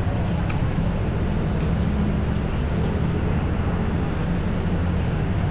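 Steady low rumble of busy city street traffic, the engines of passing vehicles blending into one continuous drone.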